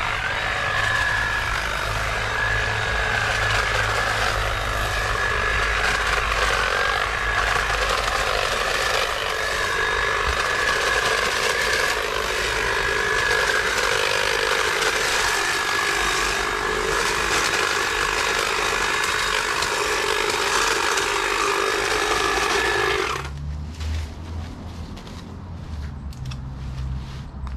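Stihl battery hedge trimmer running, a steady high whine over the rattle of its reciprocating blades, cutting off abruptly near the end. A low hum and a few clicks follow.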